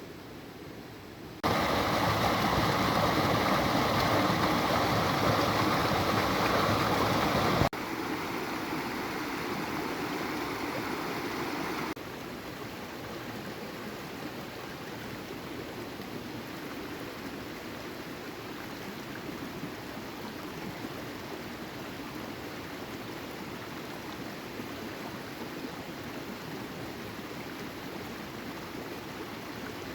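Steady rushing of water, with no speech. It is loudest from about a second and a half in, drops abruptly about seven and a half seconds in and again about twelve seconds in, then runs on evenly at a lower level.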